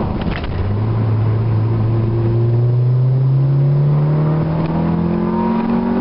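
Honda D15B four-cylinder engine and exhaust pulling hard under acceleration at about three-quarter throttle, its pitch climbing steadily as the revs rise through a gear.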